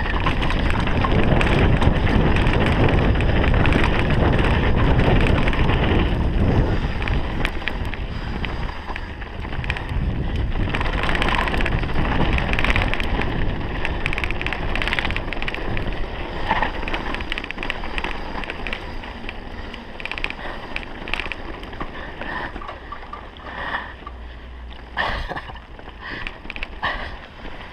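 Mountain bike descending a downhill trail at speed: wind buffets the microphone while the tyres and frame rattle and clatter over rough ground. The rush is loudest for the first several seconds, then eases into a quieter run of scattered knocks and rattles.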